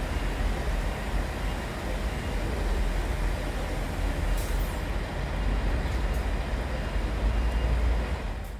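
A TransPennine Express Class 185 diesel multiple unit running slowly across the station throat: a steady low rumble, with a few brief high squeaks.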